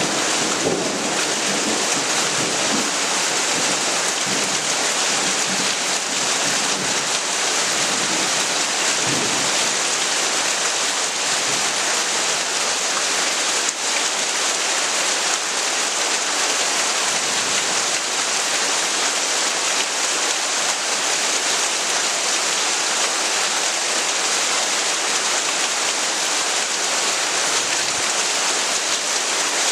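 Heavy rain falling steadily in a dense, even hiss, with the tail of a low thunder rumble dying away in the first couple of seconds.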